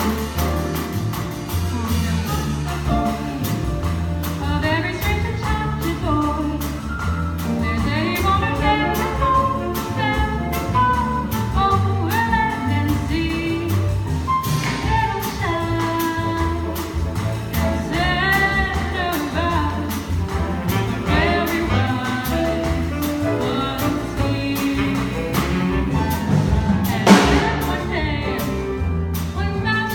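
Live jazz combo playing: a female voice sings a bending melodic line over piano, bass and a drum kit keeping time on cymbals. A single sharp hit stands out near the end.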